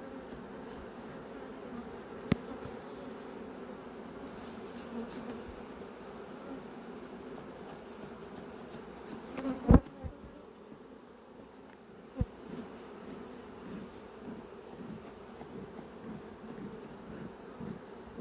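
A dense mass of honey bees buzzing around an opened, crowded hive: a steady hum, the bees agitated. A few sharp knocks break through, the loudest about ten seconds in.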